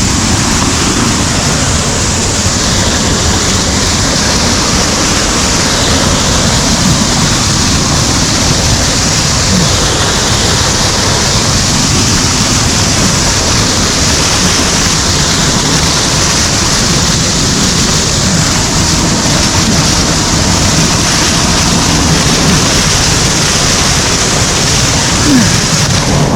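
Loud, steady rush of white water from a mountain stream's cascades close by.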